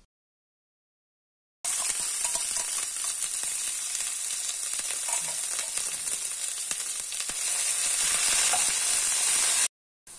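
Pounded spice paste of shallots, garlic, chili padi, anchovies and shrimp paste sizzling as it fries in hot oil in a wok. It starts after about a second and a half of silence, grows a little louder toward the end, and cuts off abruptly.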